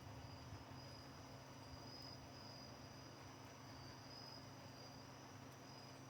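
Crickets trilling faintly and continuously, the high trill swelling and fading, over a faint steady low hum.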